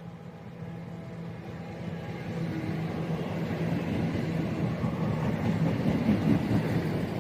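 Cross Country Class 170 Turbostar diesel unit approaching and passing through the station. Its engine hum and wheel-on-rail noise grow steadily louder, peaking about six seconds in.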